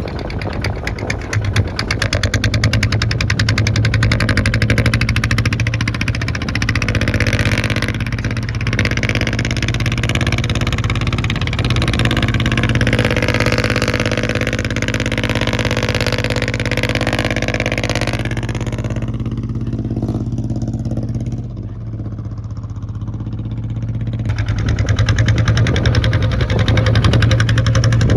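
Kubota ZT 155 single-cylinder diesel engine of a hand tractor running steadily; about two-thirds of the way through it briefly eases off, then runs louder again.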